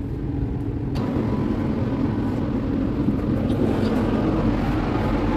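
Steady rumble and noise of a moving passenger train heard from inside, growing louder after a click about a second in.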